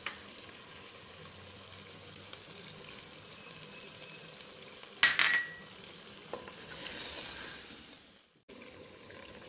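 Spice masala frying and sizzling in a clay handi while it is stirred with a wooden spoon, a steady hiss. A sharp knock comes about five seconds in, and the sizzle swells shortly after before cutting off abruptly near the end.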